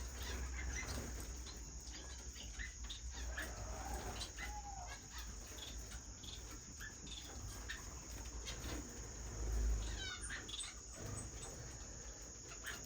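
Caged small finches (owl, society and Gouldian finches) giving scattered short chirps and calls, over a steady high-pitched hiss.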